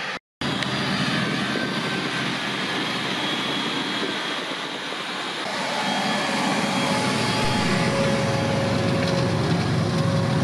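Valtra tractor engine running steadily, broken by a brief dropout just after the start, then a little louder in the second half.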